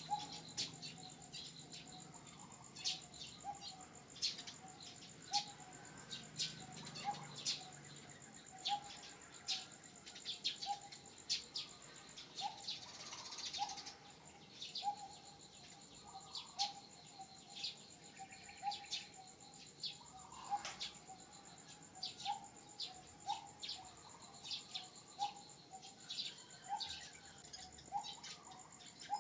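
Wild ambience of birds and insects: a steady high insect drone under a short call repeated about once a second, with many quick sharp chirps scattered throughout.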